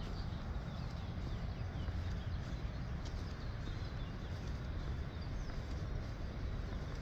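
Songbirds chirping in short, quick falling notes, several times, over a steady low rumble.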